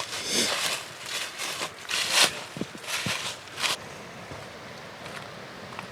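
Footsteps crunching on the trail, about half a dozen uneven steps over the first four seconds, then fading to faint background.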